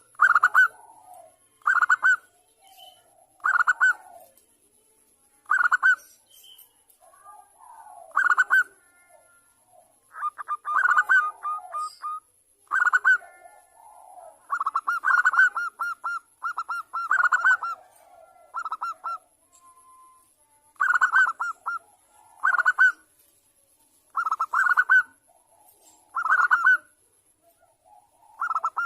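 Zebra dove (perkutut) cooing in short phrases of rapid staccato notes, repeated every second or two, with a few longer runs and fainter lower cooing in between. These are a female's calls to a male.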